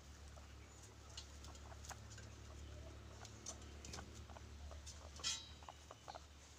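Faint scattered clicks and light patter of guinea pigs moving about, with one sharper, louder click about five seconds in, over a steady low hum.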